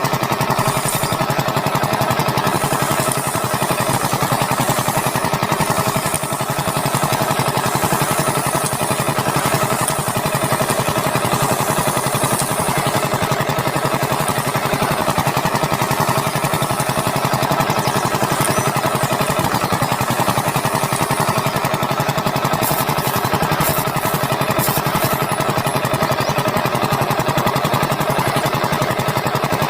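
A small electric motor in a miniature DIY machine running steadily with a fast, even buzz, with a few light ticks near the end.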